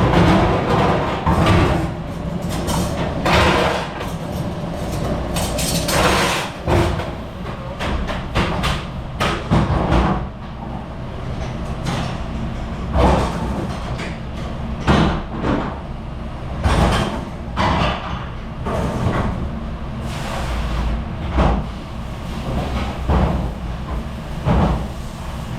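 Dishes, trays and dish racks knocking, clattering and sliding at a busy commercial dish station, over a steady low machine hum.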